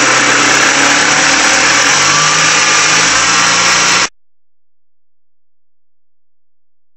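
Citroen Berlingo engine running steadily with its repaired brake vacuum pump fitted. The sound cuts off abruptly about four seconds in.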